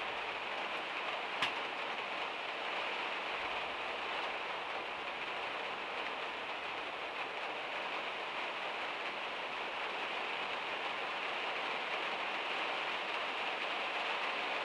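Heavy rain falling on a van's metal roof, a steady hiss with one sharp tap about a second and a half in.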